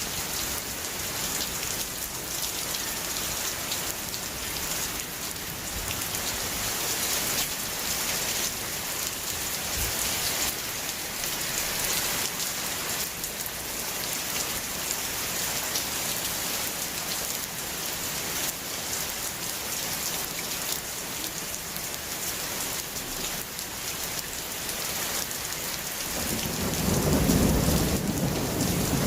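Steady rainfall hissing, with individual drops pattering on a surface. Near the end a low rumble of thunder rises and keeps going.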